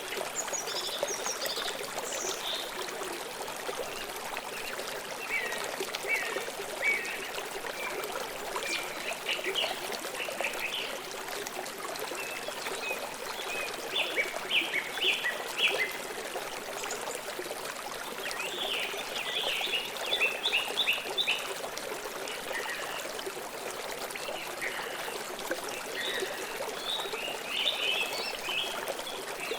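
Stream water flowing and trickling steadily, with birds chirping in quick series of short, high notes that come in bursts, strongest about halfway through and again near the end.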